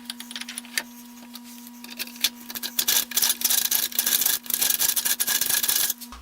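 Hand-turned cutting tool biting into a steel plate with cutting oil, making dense, irregular scraping and clicking.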